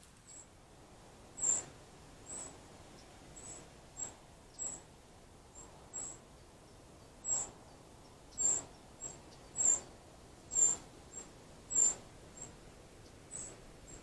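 A bird's short, thin, high chirp, repeated irregularly about once a second.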